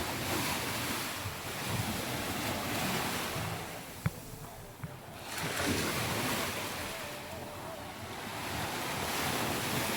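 Surf breaking and washing up a sandy beach in two long swells, the second rising about five seconds in, with wind buffeting the microphone. A single sharp click about four seconds in.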